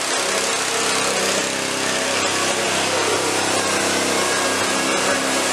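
Mitsubishi 3000GT VR4's twin-turbo V6 running steadily at idle: a constant hum with a loud hiss over it.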